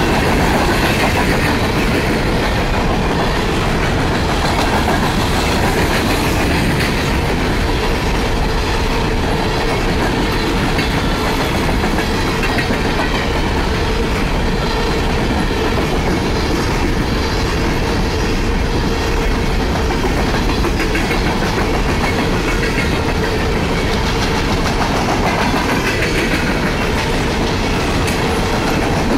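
Empty coal hopper cars of a freight train rolling past close by: a loud, steady rumble and rattle of steel wheels on rail.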